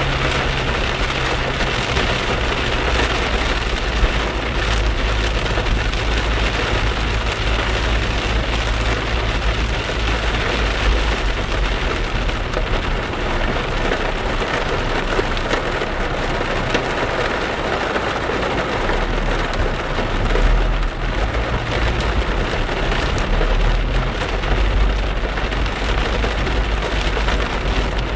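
Heavy rain drumming on a car's roof and windshield, heard from inside the moving car, as a dense steady patter over a low road and engine rumble.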